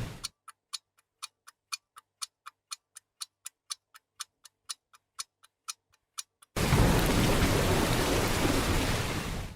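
Clock-like ticking, about four ticks a second with strong and weak ticks alternating, for about six seconds. Then a loud, steady noise with a heavy low rumble comes in suddenly and cuts off near the end.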